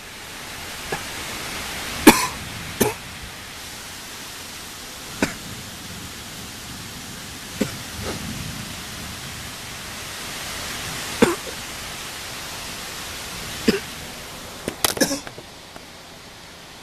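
Steady rain hiss, broken by a handful of short, sharp taps at irregular intervals, with a quick cluster of them near the end.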